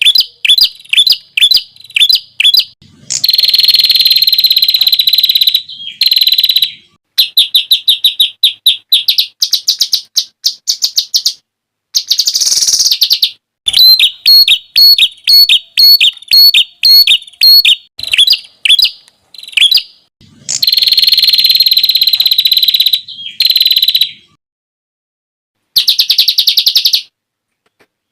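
Songbird song of the masteran kind, full of 'tembakan' phrases: fast strings of sharp repeated notes, rapid trills and harsh rasping stretches, in short loud phrases with abrupt breaks between them.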